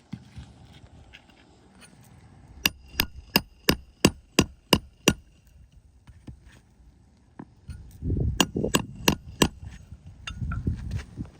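Shingle hammer driving roofing nails into asphalt shingles: a quick run of eight ringing strikes, about three a second, then four more strikes a few seconds later along with a low rumble.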